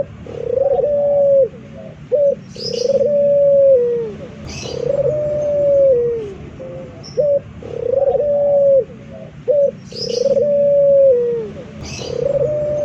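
Male puter (Barbary dove) cooing over and over: long drawn-out coos, each about a second and a half and dropping in pitch at the end, come about every two seconds with short clipped notes between them. A few brief high chirps from another bird come in over them.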